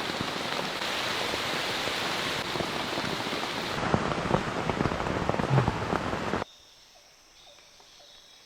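Heavy rain pouring steadily, a dense patter of drops. It cuts off abruptly about six and a half seconds in, leaving a quiet forest background with a few faint calls.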